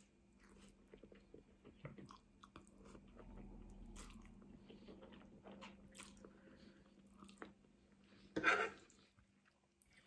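Close-miked chewing of a mouthful of spaghetti bolognese: soft, irregular wet mouth clicks, with a louder mouth sound about eight and a half seconds in.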